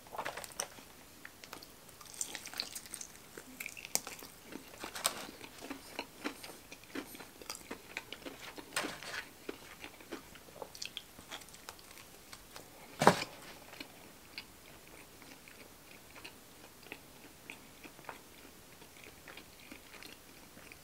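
Close-miked eating of breaded fried chicken fingers and toast: bites, crunches and chewing, with many small crackles and clicks. One sharp click a little past halfway is the loudest sound.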